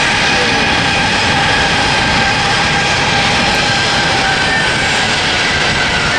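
Jet engines of a United Boeing 737 on its takeoff run and climb-out: a loud, steady roar with several whining tones that drop a little in pitch near the end as the aircraft moves away.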